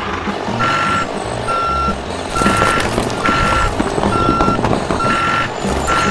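Vehicle reversing alarm beeping: seven even beeps on one steady pitch, a little less than one a second.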